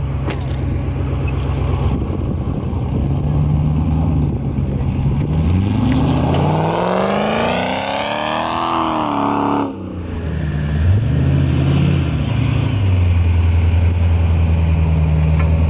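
Off-road buggy engine running steadily, then revving higher and higher for about four seconds before cutting off sharply. It picks up again and settles back into a steady run.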